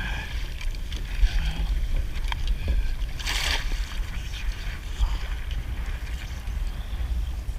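Water splashing and sloshing around a kayak as it moves off, with one louder splash about three seconds in, over a low wind rumble on the microphone.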